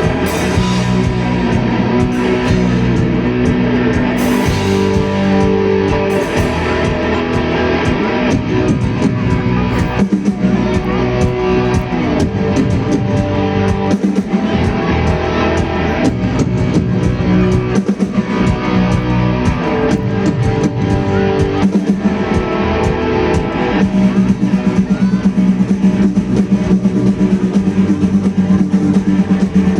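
A live student rock band plays an instrumental song intro, with guitar over bass and drum kit. The band gets louder and busier about three-quarters of the way through.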